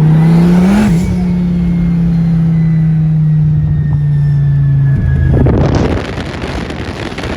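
Twin-turbo Dodge Viper's V10 engine running under way with a steady drone. Its pitch rises briefly and drops about a second in, then holds even. From about five seconds in, a rougher rushing noise takes over.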